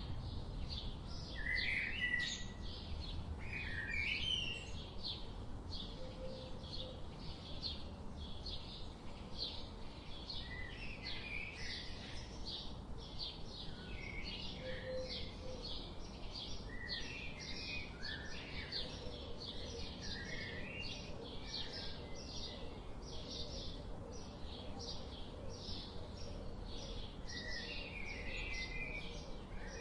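Songbirds chirping: a steady series of short, high chips repeating about twice a second, with short warbled phrases from other birds coming in now and then. A low, steady background rumble runs underneath.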